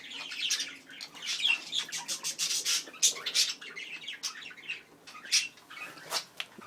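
Pet budgerigars chattering: a busy run of short chirps and squawks.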